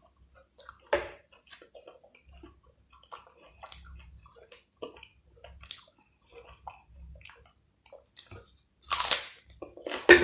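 Close-up chewing and wet mouth sounds of a person eating, in short scattered smacks and clicks, with a louder noisy burst about nine seconds in.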